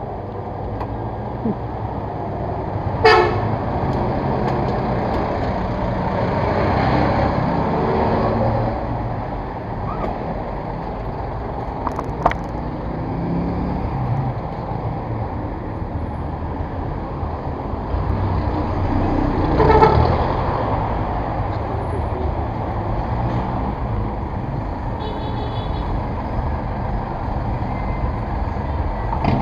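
Steady road traffic noise with two short vehicle horn toots, one about three seconds in and another about two-thirds of the way through, and a sharp click in between.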